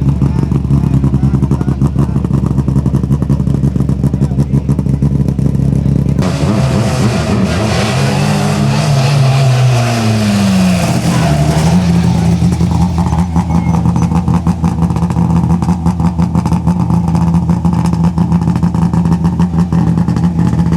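Rally car engines running. A steady engine note gives way about six seconds in to a car going past, its engine pitch rising and then falling. After about twelve seconds a steady engine note returns.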